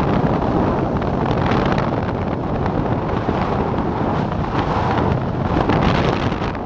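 Strong wind rushing over the microphone during a parachute jump: a loud, steady rush of air that swells and eases a little.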